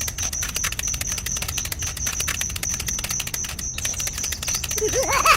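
Rapid, steady clicking with a thin high whine, typical of a DIY mini tractor's small electric motor and gears running. A high-pitched voice cuts in near the end.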